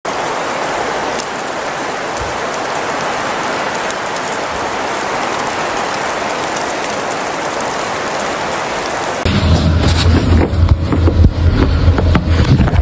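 Steady, even hiss of storm noise, like heavy rain. About nine seconds in it cuts abruptly to a louder, gusty low rumble.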